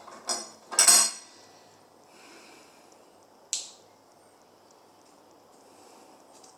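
Small metal parts clinking with a short ringing, twice near the start with the second louder, then a single sharp click a few seconds later, as cut-down screws and tools are handled and set down.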